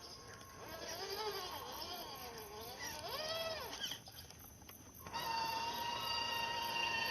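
Electric motor and gearbox of a MN99S RC crawler whining, the pitch rising and falling as the throttle is worked. After a brief pause, a steady whine sets in about five seconds in.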